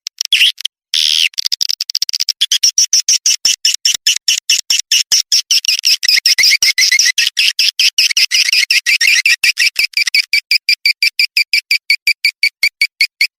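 Swiftlet lure call recording: a fast, even train of high-pitched chirps, about five a second, the twittering played in swiftlet houses to draw the birds in to roost and nest.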